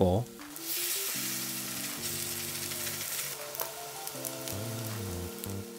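Tuna, kimchi and perilla-leaf gochujang batter patties sizzling as they pan-fry in plenty of oil in a cast iron skillet, a steady hiss. Soft background music of held notes plays underneath.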